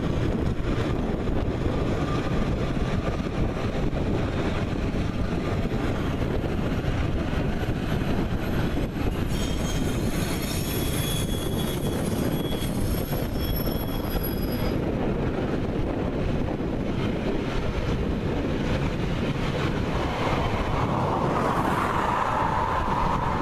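Freight train rolling past behind two 35 Class GE U15C diesel locomotives: a steady rumble of wheels on rail as long rakes of open wagons and then tank wagons go by. From about ten seconds in, high-pitched wheel squeal rings out for around five seconds.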